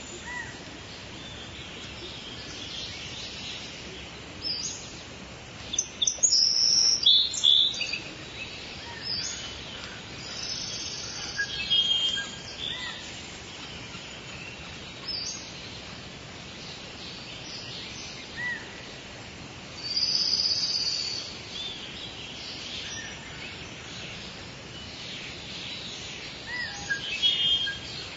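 Steady soft rain hiss with birds chirping on and off over it, in a loud run of calls about six to eight seconds in and again around twenty seconds.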